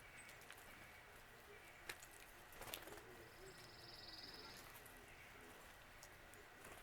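Faint bird call: a short, high buzzy trill about three seconds in, lasting just over a second, with a couple of soft knocks before it.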